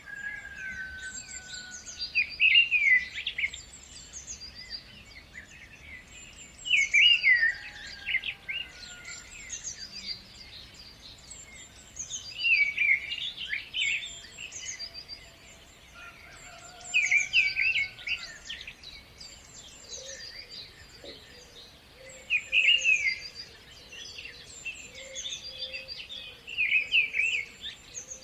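Birdsong: one bird repeats a loud, short song phrase about every five seconds, six times, while other birds chirp steadily.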